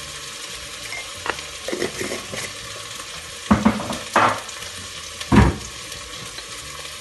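Onion frying in oil in a steel pot, a steady sizzle, broken by several sharp knocks and clinks of kitchenware being handled; the loudest knock comes a little after five seconds in.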